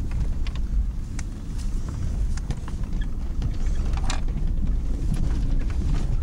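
GMC Jimmy driving over a snowy trail: a steady low rumble of engine and drivetrain, with scattered short clicks and knocks.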